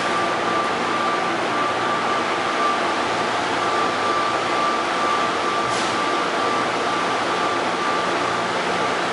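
Airport people-mover train running, heard from inside the car: a steady rolling rumble and hiss with a high whine that comes and goes.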